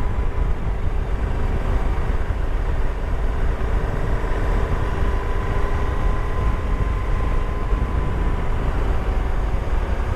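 Motorcycle on the move, heard through a helmet-mounted camera: heavy wind buffeting on the microphone over the engine's steady running note.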